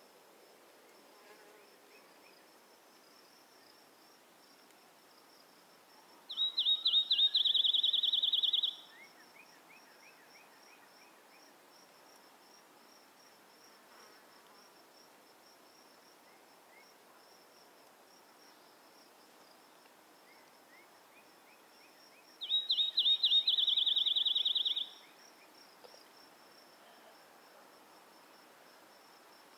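Insects, crickets, chirping steadily at a high pitch, with a louder high trill heard twice, each opening with a few stuttered notes and running about two seconds. Faint short chirps are scattered between them.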